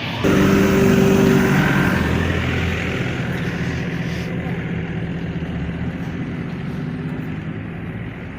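A motor engine running close by, with a steady low hum and hiss. It starts abruptly just after the start, is loudest for the first couple of seconds, then slowly fades.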